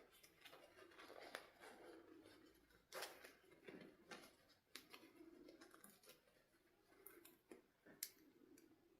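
Near silence, with faint scattered clicks and short rustles; a few sharper clicks come about three seconds in and near the end.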